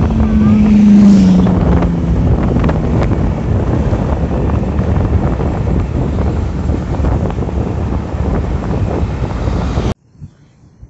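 Loud wind rushing over the microphone, with a low engine hum that drops in pitch about a second in. It all cuts off suddenly near the end.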